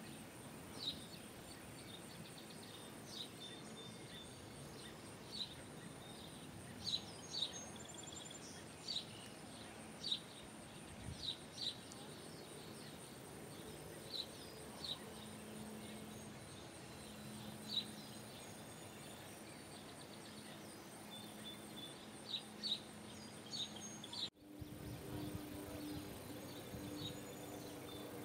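Wild birds chirping outdoors: short, high calls every second or so over a steady background hiss. The background changes abruptly near the end.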